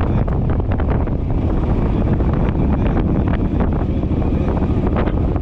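Suzuki running steadily on the road, with strong wind rumbling on the microphone.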